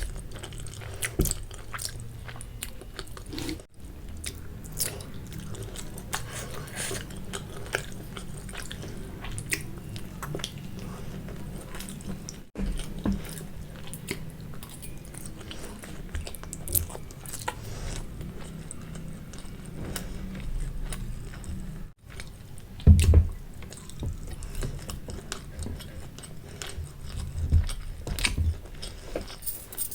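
A person chewing and biting mouthfuls of spicy Maggi instant noodles and boiled egg close to the microphone, with many small wet mouth clicks. The sound cuts out briefly three times, and there is a louder low thump a little after three-quarters of the way through.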